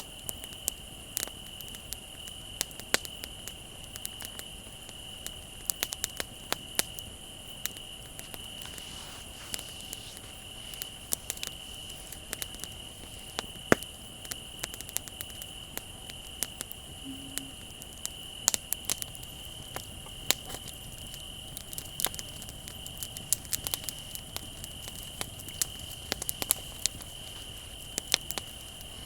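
Wood fire crackling with frequent irregular sharp pops, over a continuous high, steady trill of crickets.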